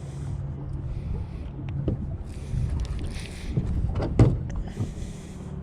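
Low rumble of wind and water around a fishing boat, with two brief hissing stretches and a sharp knock about four seconds in.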